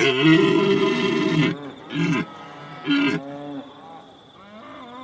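A large animal's deep, drawn-out call, followed by two shorter calls.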